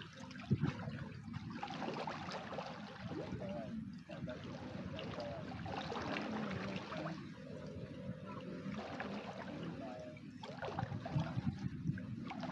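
Shallow water splashing and trickling as someone bathes in it, with many small scattered splashes.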